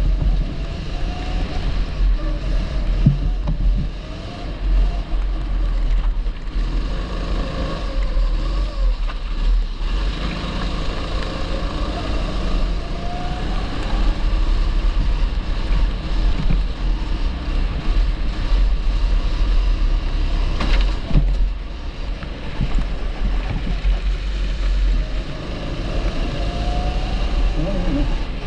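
A 270cc kart engine running on track, its pitch rising and falling again and again as the kart accelerates and brakes.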